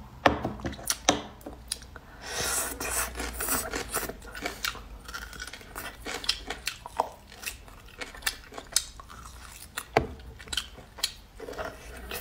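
Close-miked eating sounds of beef bone marrow being chewed, with many short wet clicks and smacks of the mouth throughout and a longer stretch of sucking noise about two seconds in.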